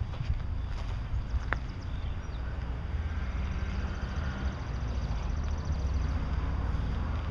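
Motorcycle engine idling with a steady low rumble, mixed with wind buffeting the microphone.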